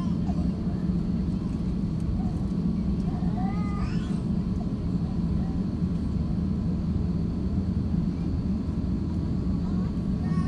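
Steady low rumble of an Airbus A350-1000's engines and airflow heard inside the cabin. A short, high wailing cry rises and falls about three and a half seconds in, and another comes at the end.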